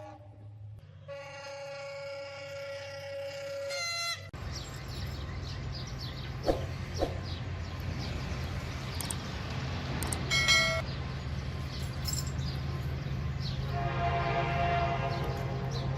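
Diesel locomotive horn sounding a long blast, then the locomotive's engine running with rail noise. A short horn toot comes about ten seconds in, and another horn blast near the end.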